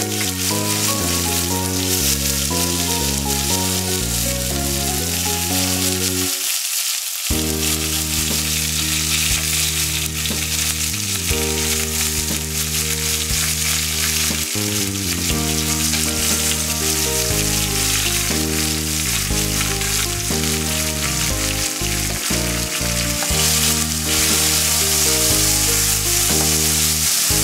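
Chopped tomatoes sizzling as they are added to hot mustard oil with a panch phoron and dried red chilli tempering in a kadai. Soft background music runs underneath.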